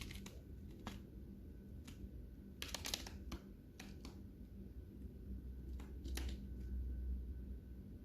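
Lovebirds cracking and husking seeds: scattered dry clicks and crunches, a few single ones and a quick cluster of them about three seconds in.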